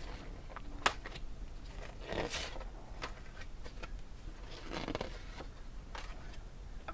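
Paper and packaging being handled: rustling and scraping as sheets or cards are slid and shuffled, with a sharp click about a second in and two louder rustles midway and near the end.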